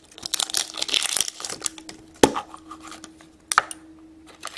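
Wrapper crinkling and tearing as a toy surprise package is opened by hand, with a sharp click about two seconds in and another a little over a second later.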